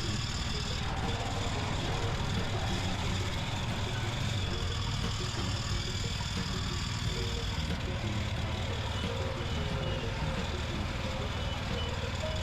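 Mini tractor's engine running steadily.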